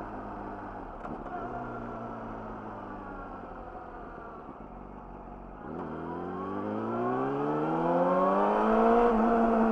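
Yamaha YZF-R6 inline-four running through an Akrapovic slip-on exhaust, first at steady low revs that ease off slightly. A little past halfway it pulls away under throttle, the note rising in pitch and getting louder for about three seconds, then levelling off near the end.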